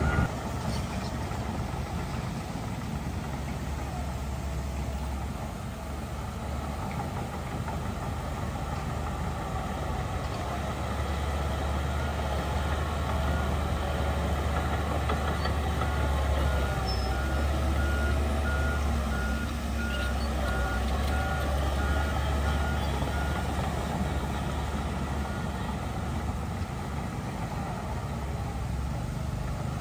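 Heavy diesel earthmoving machinery running steadily with a deep rumble, and a reversing alarm beeping in an even pulse for several seconds in the middle.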